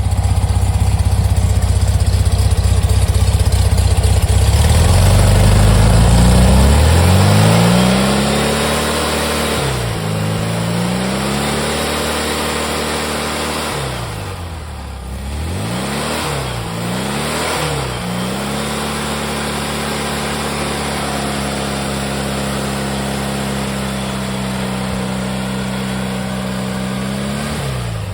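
A 1776cc air-cooled VW flat-four with single-port heads and a single 30 PICT-1 carburettor, running through a stainless exhaust. It is revved up and back down several times, then held at a steady fast idle, and the revs drop right at the end.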